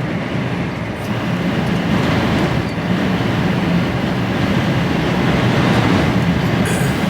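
Steady noise inside the cab of an HGV lorry driving at speed: a low engine drone under continuous road and wind noise.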